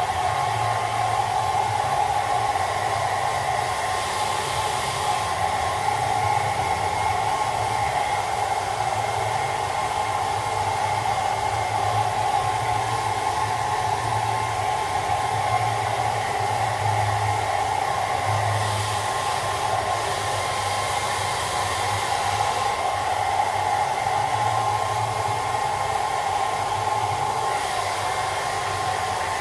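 Hairdryer running steadily with a motor whine and the rush of blown air, its air hiss swelling briefly a few times.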